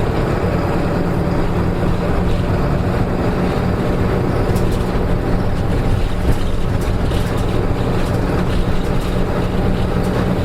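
Diesel engine of a Nissan Diesel KK-RM252GSN route bus running at a steady note, heard from inside the bus, with a few faint rattles. The engine has developed an abnormal noise.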